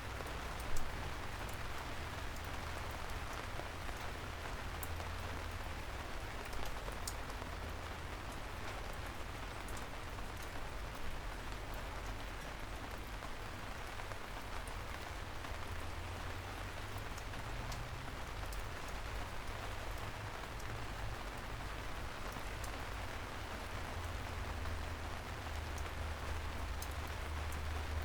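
Soft, steady rain falling on city streets, with scattered sharp drips and a steady low hum underneath. A single louder knock comes about a second in.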